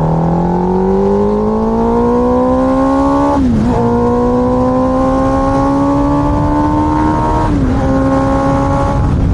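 Yamaha R1 superbike's inline-four engine accelerating under load, its pitch climbing steadily. There are two gear upshifts, about three and a half and seven and a half seconds in, each a quick drop in pitch before it climbs again.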